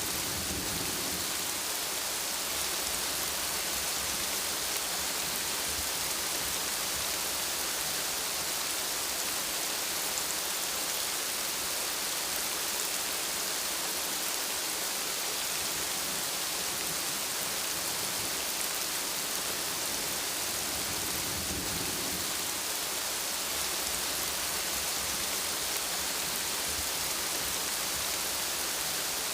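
Steady rain falling hard with an even hiss, with low rumbles of distant thunder twice: near the start and about two-thirds of the way through.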